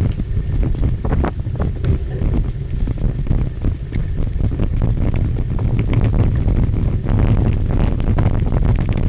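Wind buffeting the microphone of a camera riding along on a cyclocross bike, with frequent short knocks and rattles as the bike rolls over rough ground.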